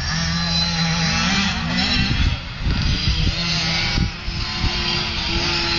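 Pit bike engines on a motocross track: one holds a steady note, then revs up, rising in pitch between about one and two seconds in. After that there is an uneven low rumble with a lighter engine note underneath.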